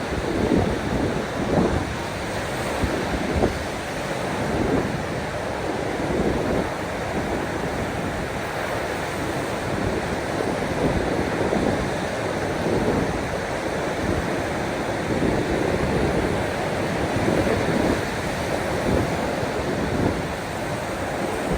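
Sea waves washing in a continuous, uneven rush, with frequent short low surges.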